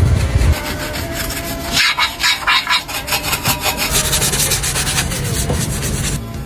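Hand-sanding a repaired plastic car bumper: abrasive rubbed quickly back and forth in rhythmic strokes, about five a second, in two runs.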